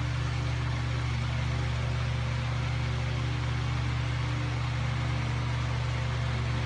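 Electric fan running steadily, a constant low hum with a rush of air.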